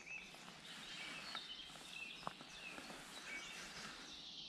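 Faint birdsong of short, repeated chirped notes over a soft background hiss, with one sharp click a little over two seconds in.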